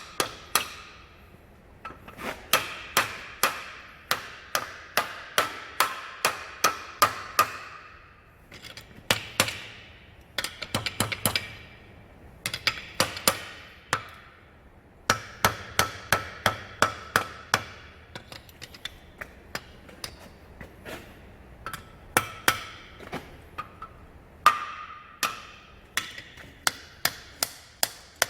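Blacksmith's hand hammer striking hot steel on an anvil while forging an axe from leaf-spring steel: runs of quick blows, about two to three a second, with short pauses between runs and a ringing note after each strike.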